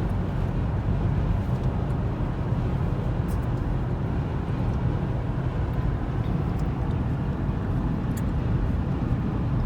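Steady road and engine noise of a car travelling on the highway, heard from inside the cabin: an even low rumble with no change in speed.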